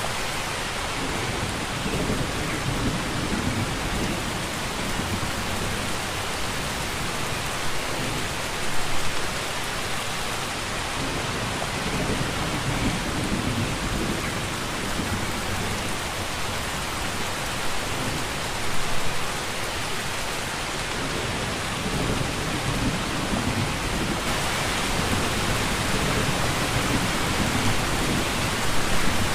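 Steady, dense rainfall pouring down, with low rumbling swells that come and go every several seconds.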